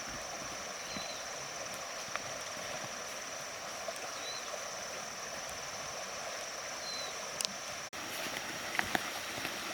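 Forest ambience: a steady high-pitched drone over an even hiss, with three short faint chirps spaced a few seconds apart. A brief dropout near the end is followed by a few light clicks or knocks.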